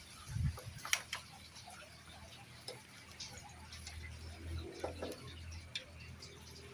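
Faint, scattered clicks and light taps of small hard objects being handled, a sharper click about a second in, with a low steady hum underneath from about four seconds in.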